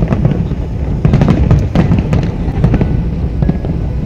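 Fireworks display: many shells bursting in quick succession, a dense run of bangs and crackles over a continuous low rumble.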